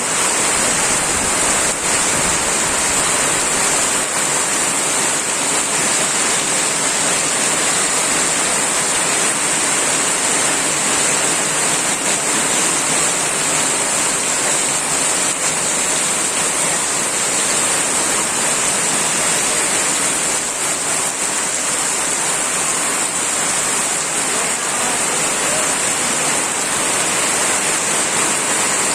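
Heavy rain pouring steadily: a dense, even hiss of a downpour that holds without a break.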